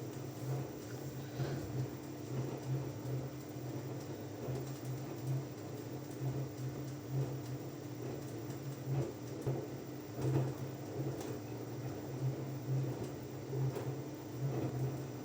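Washing machine running mid-wash: a steady low hum that swells and fades, with a faint steady tone above it and a few light knocks.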